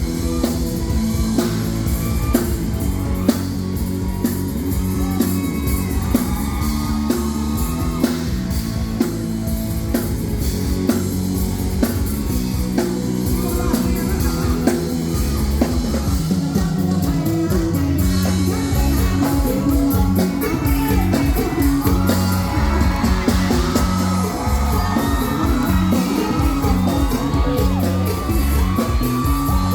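Live band playing rock-style music with drums and electric guitar, and a singer's voice over it that is strongest in the second half.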